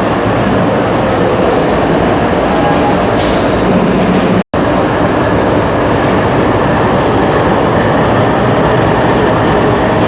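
Train in a rail yard: a steady, loud rolling noise of rail cars and locomotive. There is a short high hiss a little over three seconds in, and the sound cuts out for an instant about halfway through.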